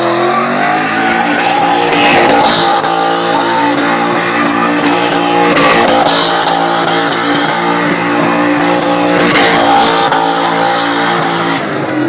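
Straight-piped BMW E39 M5 V8 held at steady high revs while its rear tyres spin and squeal in donuts. The tyre noise swells three times, about every three and a half seconds.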